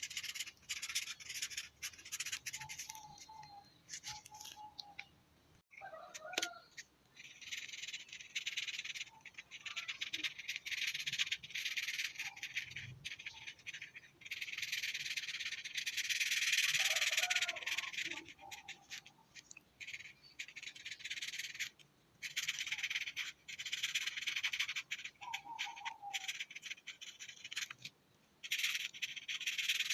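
A colouring tool scratching across paper in repeated strokes: hissy scrubbing that comes in runs of a second or several seconds, broken by short pauses, as an area of a drawing is filled in.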